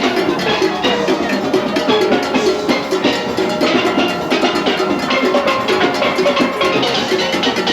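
Steelband playing carnival music, many steel pans striking quick rhythmic notes over drums and percussion.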